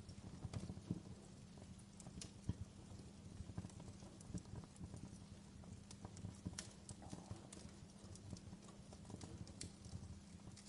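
Wood fire crackling: irregular sharp pops and snaps over a steady low hum, a few louder pops in the first few seconds.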